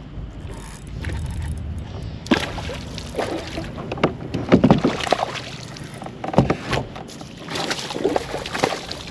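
Irregular knocks, rustles and short water splashes from movement in a fishing kayak, loudest about halfway through.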